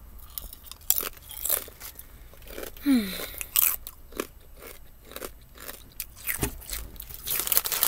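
A person biting and chewing crunchy barbecue potato chips, with repeated sharp crunches, and a brief falling 'mm' hum about three seconds in.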